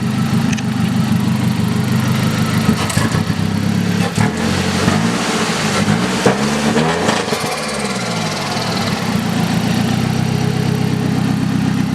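Nissan CA18DET turbo four-cylinder idling through a straight-piped 3-inch exhaust. It is revved up and back down a few times about halfway through, then settles back to a steady idle.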